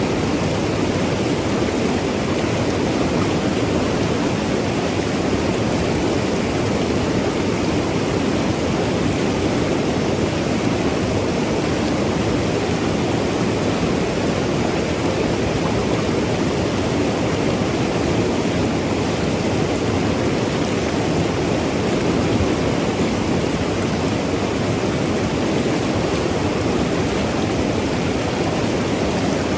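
Mountain river rushing over rocks, a steady, even wash of water with a low rumble.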